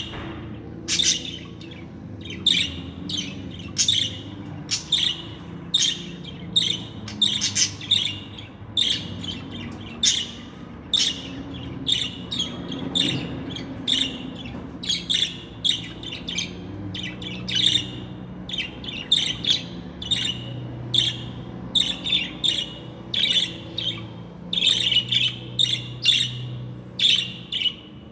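Budgerigar chirping and squawking in a steady run of short, high calls, about two a second, over a faint low hum.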